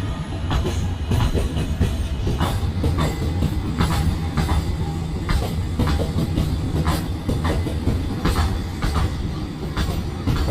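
Train running: a steady low rumble with irregular sharp clicks and knocks about once or twice a second.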